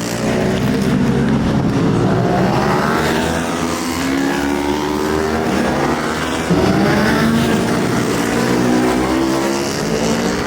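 Superbike racing motorcycles at high revs, the engine note repeatedly climbing and dropping as the bikes shift through the gears. The level jumps suddenly about six and a half seconds in.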